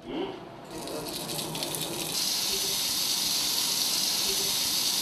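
Lamb chops sizzling in a frying pan. A steady hiss starts abruptly about two seconds in, after a quieter stretch with a few light clicks.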